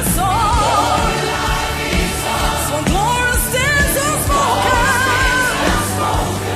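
Gospel praise song: a lead voice sings wavering, sliding runs over continuous band accompaniment with a steady bass.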